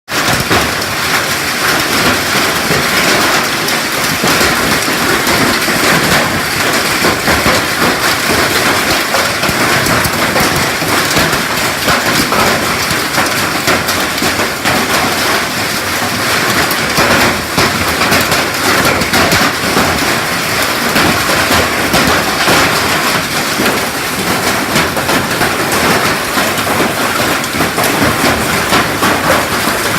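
Hailstones pelting down in a storm: a loud, steady, dense clatter of countless small impacts.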